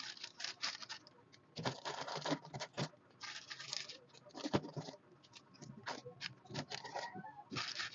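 Irregular light clicks, taps and rustles of food containers and packaging being handled and set down while a refrigerator is stocked.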